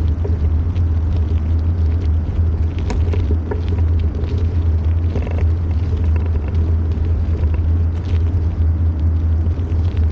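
Steady low rumble of wind buffeting the microphone of a camera carried on a moving bicycle, with a few faint clicks and rattles from the ride.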